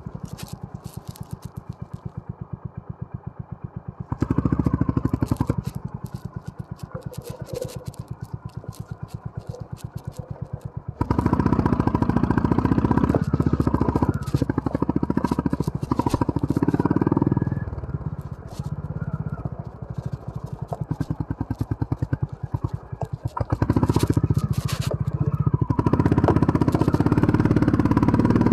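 Honda CB350 RS's air-cooled single-cylinder engine running, with quieter low-revving stretches between throttle openings about 4 s, 11 s and 24 s in. Short knocks and rattles from the bike riding over a rough off-road trail are mixed in.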